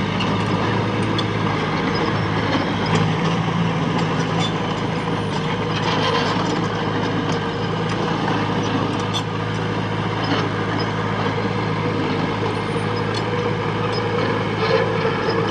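Komatsu D21A mini bulldozer's diesel engine running steadily under work, with scattered metallic clanks and squeaks.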